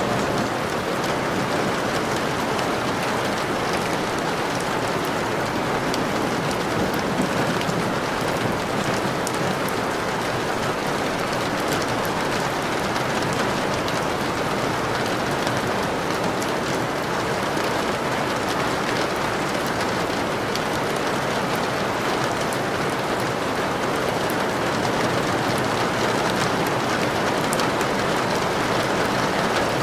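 Steady rainfall, an even hiss of rain hitting surfaces.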